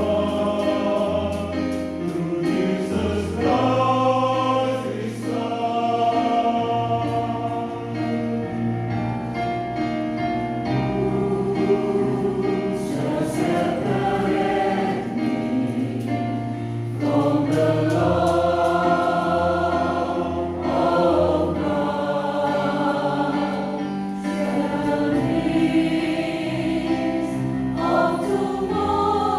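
Church choir singing a gospel song, with sustained notes that change every second or two over held low notes.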